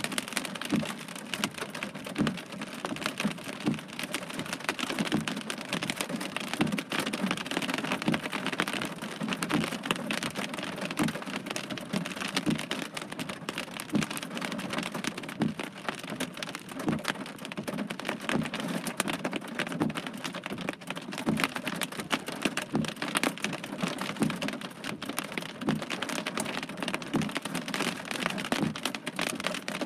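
Heavy rain falling during a thunderstorm, a steady dense patter of many drops hitting a surface.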